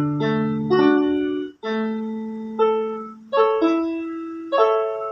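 Piano playing an instrumental break in a slow song: chords and single notes struck about eight times, each left to ring and fade.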